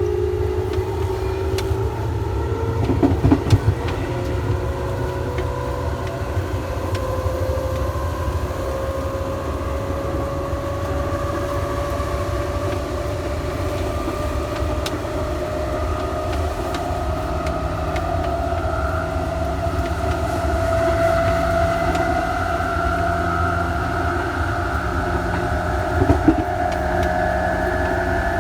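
Electric train accelerating: the traction motors' whine rises slowly and steadily in pitch over the rumble of the running gear, with a couple of brief knocks. The title describes a recording with one motor cut out, which points to a motor on the train having been isolated.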